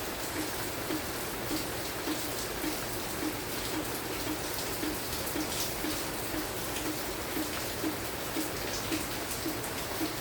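Steady light rain falling, an even hiss of drops, with a regular low tap repeating a little under twice a second.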